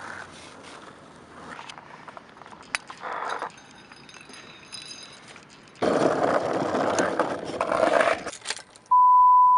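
Faint scraping and clicking, then a louder few seconds of rushing noise with clicks, and near the end a loud steady beep tone that cuts off abruptly.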